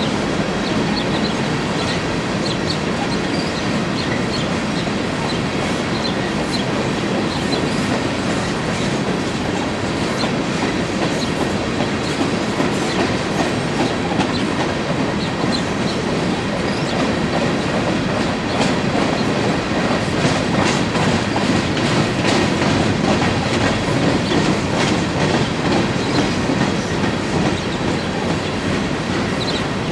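Empty coal hopper cars of a freight train rolling past: a steady rumble with the clickety-clack of wheels over rail joints and brief high-pitched wheel squeals. The train gets a little louder about two-thirds of the way through.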